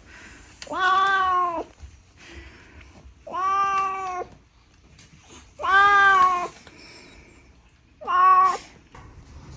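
Domestic cat meowing four times, each drawn-out call about a second long and the last one shorter, with short pauses between.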